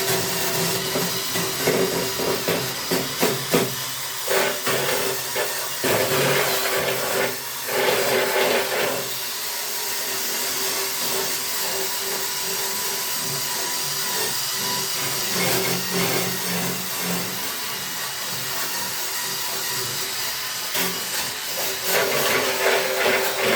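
A small power tool running steadily with a hissing noise, louder for a few seconds near the start and again near the end.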